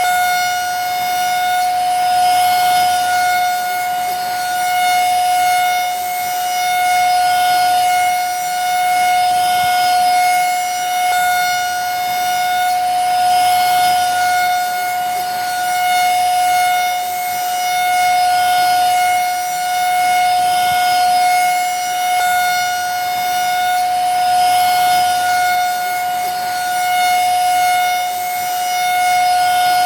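Vacuum cleaner running steadily: a high, unchanging motor whine over the rush of air, swelling slightly every couple of seconds.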